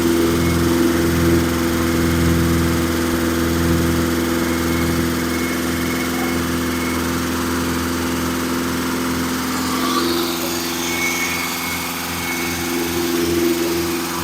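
Engine running steadily during the first start of its new camshaft's break-in.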